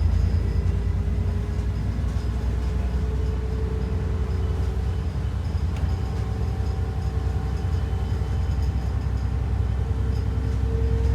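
ADL Enviro 400 double-decker bus on the move: a steady low engine rumble with a faint whine that drifts slightly in pitch.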